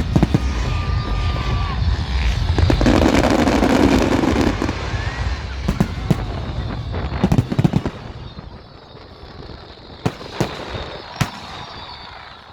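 Fireworks going off: rapid crackling bangs and pops, densest and loudest about three to four seconds in, then thinning out to a few single sharp bangs near the end.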